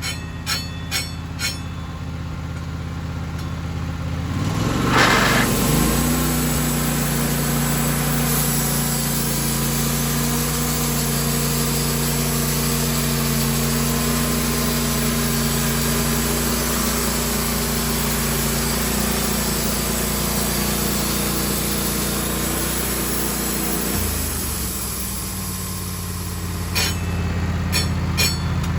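Sawmill engine idling, then throttled up about five seconds in and running steadily under load as the saw cuts through a pine log for about twenty seconds, dropping back to idle near the end. A few sharp clicks come just before the cut and again after it.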